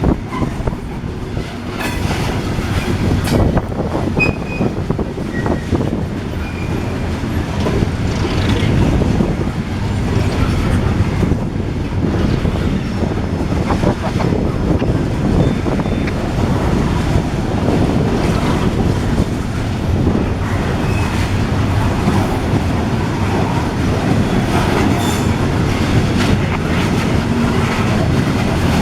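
Freight train cars rolling past, a steady rumble of wheels on rail with scattered clacks over the joints and a few faint thin wheel squeals.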